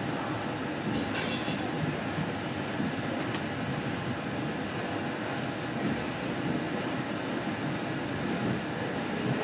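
Inside a Mark 3 coach of an InterCity 125 (HST) train as it moves off at low speed: the steady rumble and hiss of the moving train. Two brief sharper sounds come in the first few seconds.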